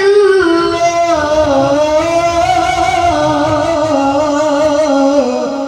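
A man reciting the Quran in a melodic, sung style, holding one long ornamented note with a wavering, trilling pitch. The note starts higher and slides down within the first second or so.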